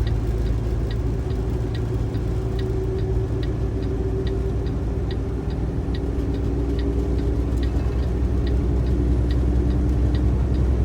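Turn signal ticking steadily, about two and a half clicks a second, over the steady drone of the Kenworth T680 truck's diesel engine and road noise inside the cab.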